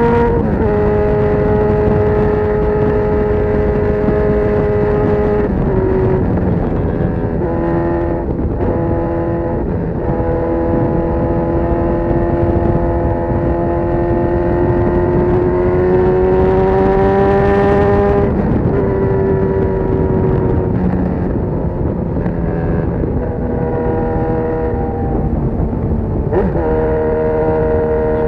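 Honda CB1000R's inline-four engine running through a full GP Lougan RS Evolution aftermarket exhaust at steady moderate revs. The engine note steps down or up several times and climbs slowly in the middle.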